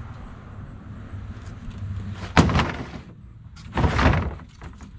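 A plastic milk crate being hooked and dragged across a pickup truck bed: a sharp knock about halfway in, then a rattling scrape about a second later.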